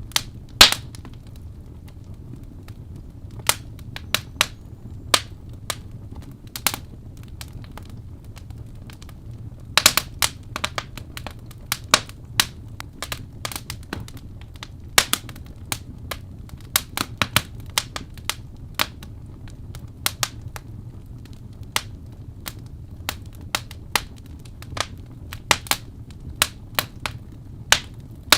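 Wood fire in a fireplace crackling, with many sharp, irregular pops and snaps over a low steady rumble.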